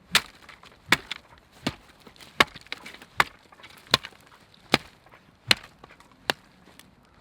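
Wood being chopped: nine sharp, evenly spaced blade strikes into wood, about one every three-quarters of a second.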